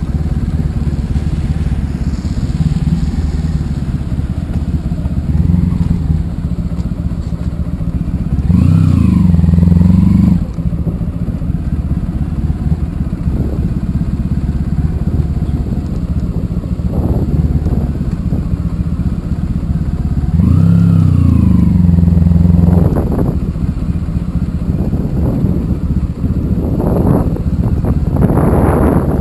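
Honda ST1100 Pan European's V4 engine running under way, with two surges of acceleration, rising in pitch: one about nine seconds in and one about twenty seconds in. Steady wind and road noise lies under it, turning gusty near the end.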